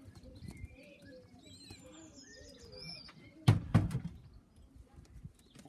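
Pigeons in an aviary: low wavering calls and scattered higher chirps, with a loud thump and rustle about three and a half seconds in.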